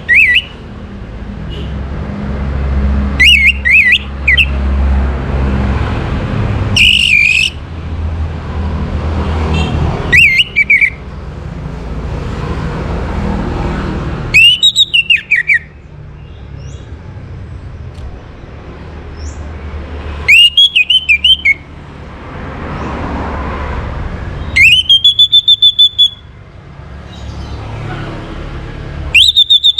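Orange-headed thrush singing loud, short whistled phrases, seven in all, spaced a few seconds apart. It is a lure song meant to bring a caged bird into breeding condition. A steady low rumble runs underneath.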